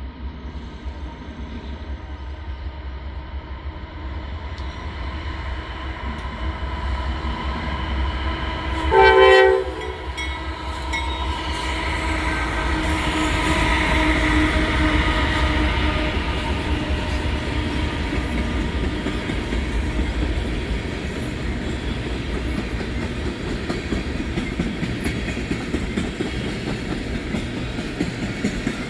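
A Norfolk Southern freight train with diesel locomotives leading an oil train passes by. The rumble builds, the locomotive gives one short horn blast about nine seconds in, and the locomotives' diesel engines go by loudest a few seconds later. The tank cars then roll past with a steady rumble and the clickety-clack of wheels on rail joints.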